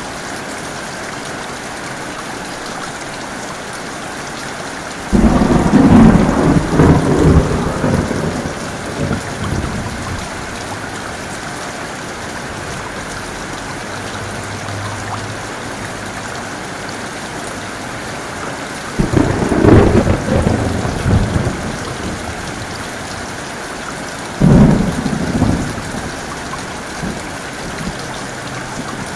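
Heavy rain falling steadily with thunder. Three thunderclaps break in suddenly and rumble away: a long one about five seconds in, another near the two-thirds mark, and a shorter one soon after.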